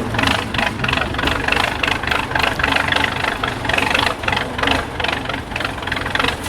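IFA W50 truck's diesel engine running at low revs, with an irregular rattling clatter over a steady low hum.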